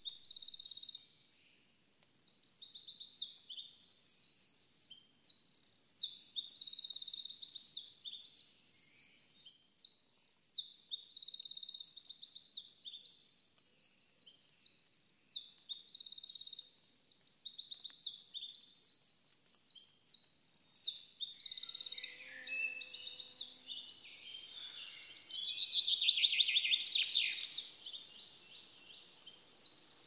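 Songbirds singing: quick, high trills repeated over and over with short chirps between them. About two-thirds of the way through a fuller, louder stretch of song joins in, with notes sweeping downward.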